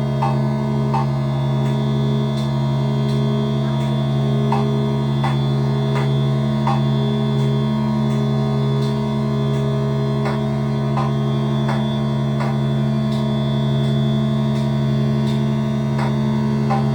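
Modular synthesizer holding a steady low drone of several stacked tones, with short clicks scattered irregularly over it.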